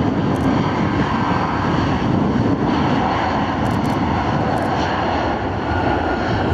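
Airliner engines running steadily, a constant dense noise with faint high whining tones above it.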